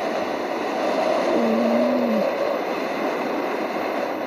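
Tornado wind: a steady, dense rush of noise with a faint wavering whistle running through it. A short, low wavering tone comes in about a second and a half in.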